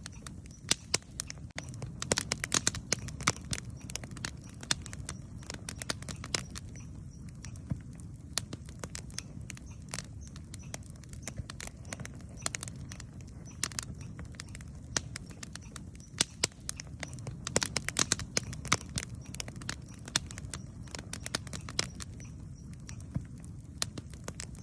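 Wood campfire crackling and popping: many sharp irregular pops over a steady low rustle of the burning fire.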